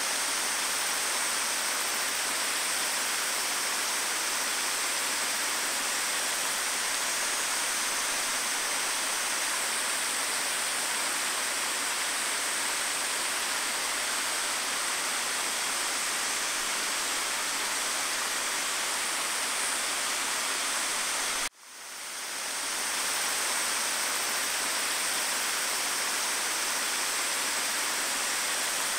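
Steady rush of flowing river water. About 21 seconds in it cuts out briefly and fades back in.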